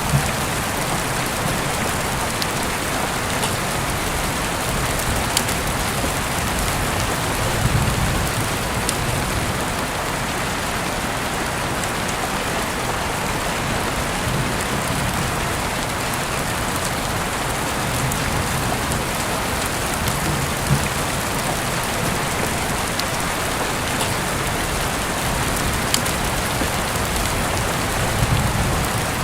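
Heavy rain falling steadily, a dense even hiss with the odd sharper drop tick.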